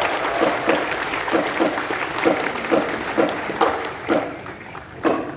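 Audience applauding in a large hall just after a drum corps piece ends, with a regular beat of stronger strikes about twice a second running through it. Near the end the clapping thins out to a few separate strikes.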